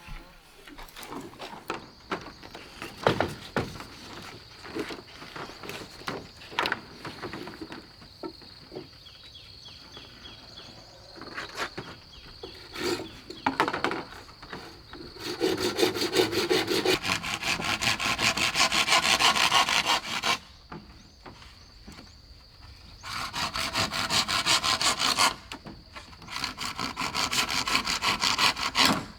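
Hand saw cutting through bamboo: scattered knocks and rustles of the stalks, then three bouts of rapid back-and-forth sawing strokes, the first and longest starting about halfway through.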